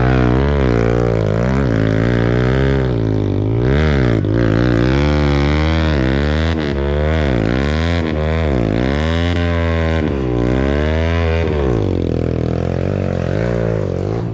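Trail motorcycle engine revving up and down again and again under load as the rider tries to power up a slippery climb, settling to a steadier note near the end.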